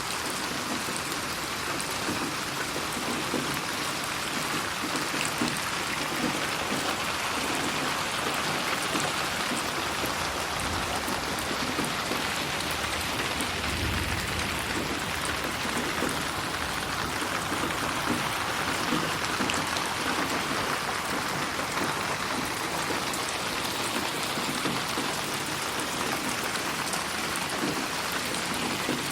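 Steady, dense rainfall hissing and pattering, processed as 8D audio so it moves around the listener. A faint low rumble comes in about halfway through.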